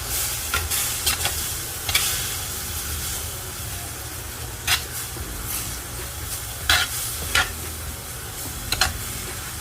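Food frying in a pan with a steady sizzle, and a spoon stirring and clacking against the pan several times.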